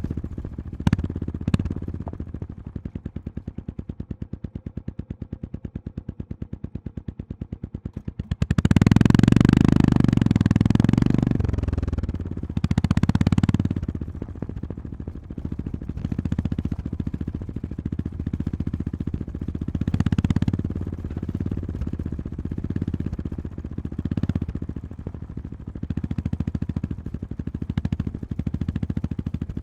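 Honda GB350S single-cylinder engine running at low revs, then opened up hard about eight seconds in, with further shorter bursts of throttle while riding. A couple of sharp knocks near the start.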